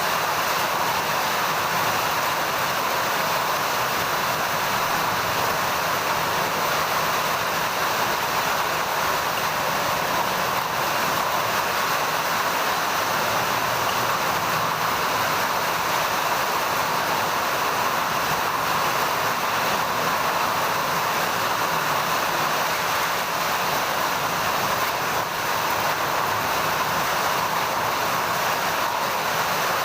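Heavy rain falling in a steady, even hiss, with no let-up.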